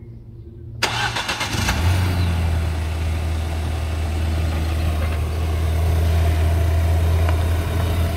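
A car engine starting about a second in, then running steadily at idle.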